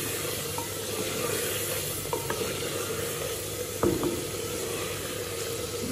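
Chicken and masala sizzling as they are fried in a clay handi, stirred with a wooden spoon scraping through the pot. A single sharp knock, likely the spoon against the clay, about four seconds in.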